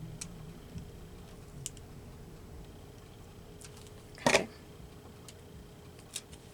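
Scattered light clicks and taps of paper and small craft materials being handled on a work table, with one louder rustle about four seconds in.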